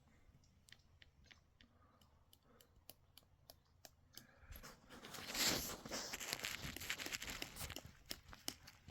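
Scattered small clicks, then a few seconds of crunching and tearing, loudest a little past the middle.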